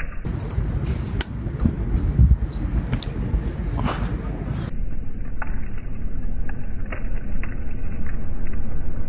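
Wood fire burning hard in a homemade secondary-combustion wood stove: a steady low rumble with scattered crackles and pops. It is drawing air through three lower air holes, which the maker finds is still too much air, so it burns fast like an incinerator.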